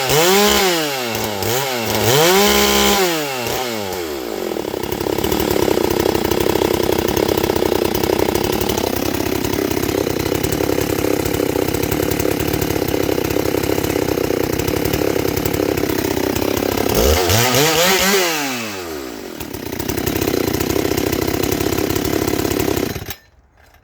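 Ported and decked Husqvarna 394XP two-stroke chainsaw blipped up and down twice, held at high revs for a long stretch, revved once more, then shut off suddenly about a second before the end.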